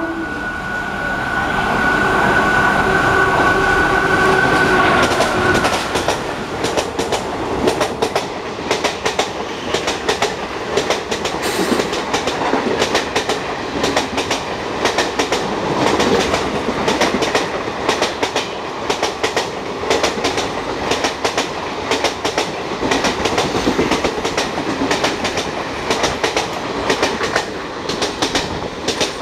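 Indian Railways WAG-5 electric locomotive holding its horn for about five and a half seconds as it runs through at speed. After that its express coaches rush past with a fast, steady clickety-clack of wheels over rail joints.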